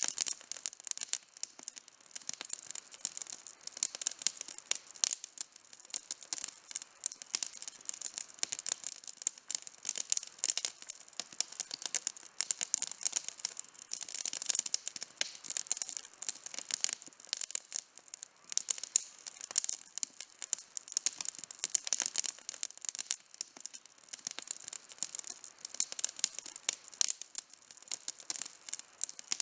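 Campfire burning with a dense, continuous crackle of rapid small pops and snaps from the burning wood, with no low rumble beneath it.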